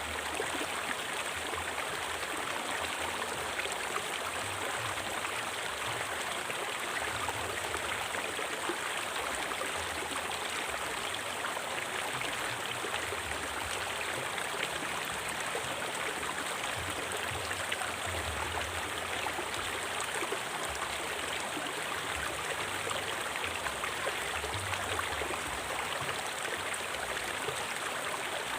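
River water flowing and splashing over rocks, a steady rushing with small gurgles.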